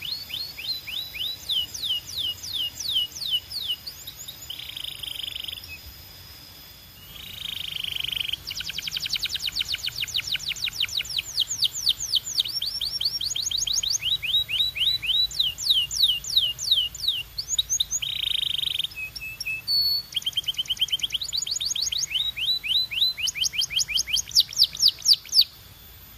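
Belgian canary singing: long rolling trills of quick, high down-slurred notes, about ten a second, broken now and then by short harsh, buzzy phrases, with a brief pause partway through.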